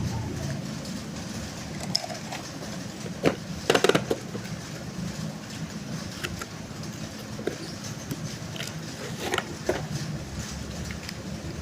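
A faint steady low hum with scattered sharp clicks, and a short rattling clatter about four seconds in.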